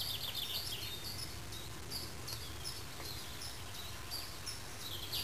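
Small songbirds singing: repeated quick, high-pitched chirps and trills, over a low, steady background rumble.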